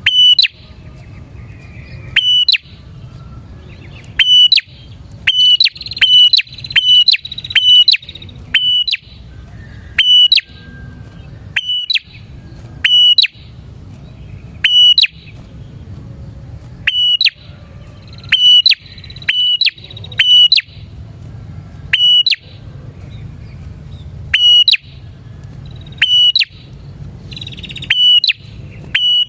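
Prinia (prenjak) calling: a loud, sharp note repeated about every one to two seconds, at times in quick runs of two or three, with a buzzy trill under some of the runs.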